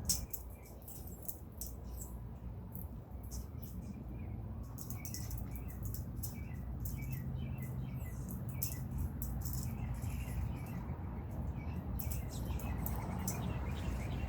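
Small birds chirping in short, repeated notes, mixed with many quick sharp clicks and ticks.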